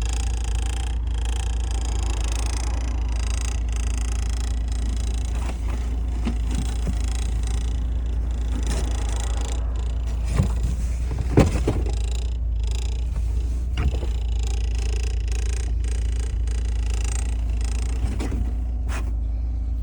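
A car engine idling, a steady low rumble, with a few short knocks about ten, eleven and fourteen seconds in.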